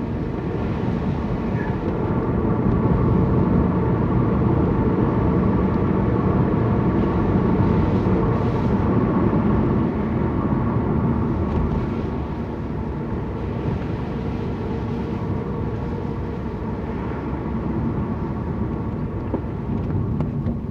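Car engine and road noise heard from inside the cabin while driving at a steady pace, a little louder through the first half and easing off after about twelve seconds.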